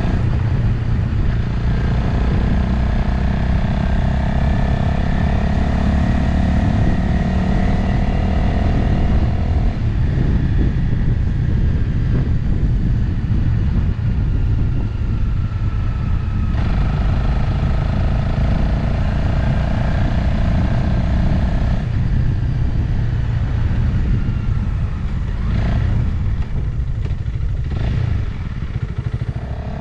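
Motorcycle engine running at road speed with wind rushing over the microphone. The engine note holds a steady pull, breaks off about ten seconds in, picks up again past the halfway point, and eases off near the end.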